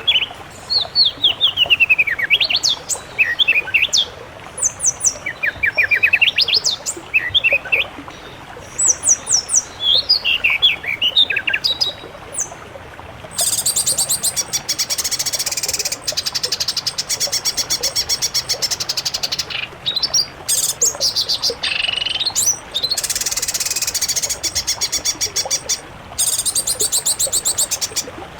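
Songbirds singing in quick chirped and whistled phrases, then from about halfway a fast, dense rattling trill that carries on with short breaks.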